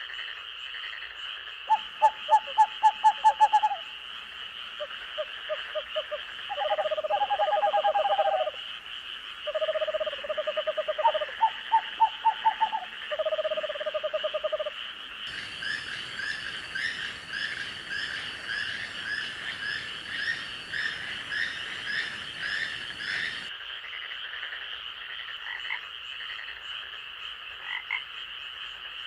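Night forest chorus: frogs croaking in quick pulsed series over a steady high-pitched insect trill. Around the middle the frogs give way to faster, higher rhythmic chirping with a soft hiss beneath.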